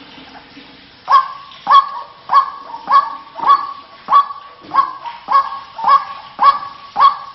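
White-breasted waterhen (ruak-ruak) calling: a steady run of about eleven short, loud honking notes, roughly one every 0.6 seconds, starting about a second in.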